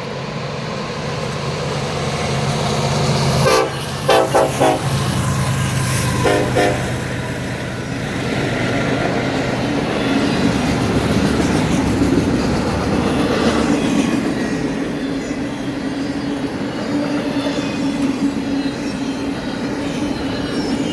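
BNSF diesel locomotives pulling a double-stack container train uphill, engines running steadily. The horn sounds in a few short blasts about four seconds in and once more around six seconds, then the steady rumble and clatter of the stack cars rolling past.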